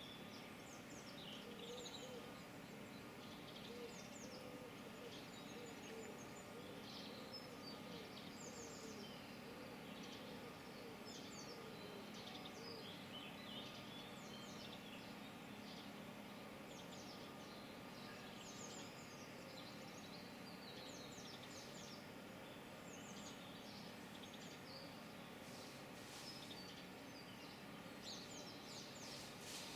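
Birdsong: many birds chirping and singing in short, rapid calls throughout, with some lower wavering calls in the first half, over a faint steady background hum.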